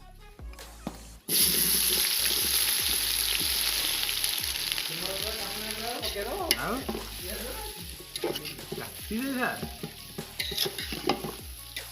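Food dropped into hot oil in a pan, starting a loud sizzle about a second in that slowly dies down while it is stirred. Background music with a steady beat plays underneath.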